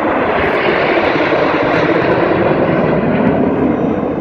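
Aircraft engine noise from a low air-show flyover, swelling to its loudest about two seconds in and easing slightly toward the end.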